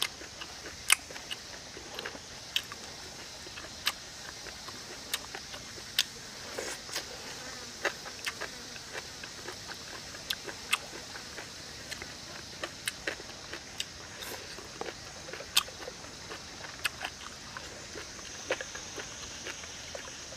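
A person eating with chopsticks: sharp, irregular clicks of chewing and lip-smacking, about one a second, over a steady high insect buzz that swells near the end.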